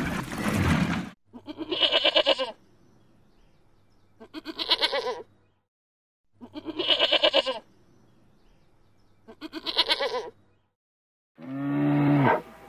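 A goat bleating four times, each wavering bleat about a second long and about two and a half seconds apart. A rough, growling animal sound from a crocodile ends about a second in, and a low, drawn-out animal call begins near the end.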